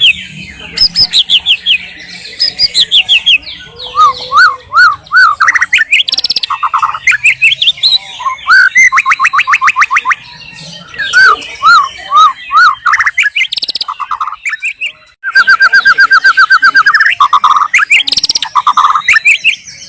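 White-rumped shama singing a long, loud, varied song. It mixes clear whistled notes, runs of quick repeated notes and rapid high trills, with a short pause about fifteen seconds in.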